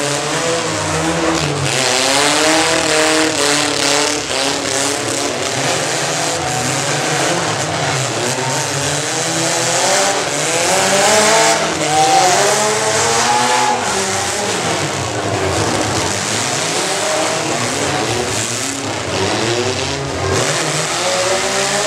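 Compact pickup truck engines running hard at full throttle, their pitch rising and falling over and over as they rev under load.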